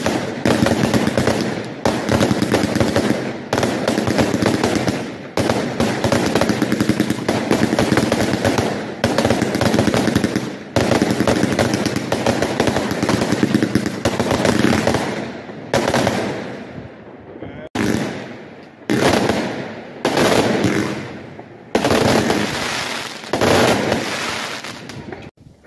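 Fireworks cakes firing: a rapid, dense barrage of shots and crackling star bursts. After about halfway, it breaks into several shorter volleys that start and stop abruptly.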